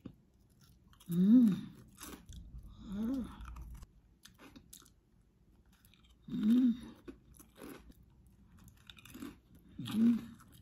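Crunching and chewing of ridged potato chips dipped in avocado paste, in short sharp crunches. Four short hummed sounds from the eater's voice, each rising and falling in pitch, come between the bites.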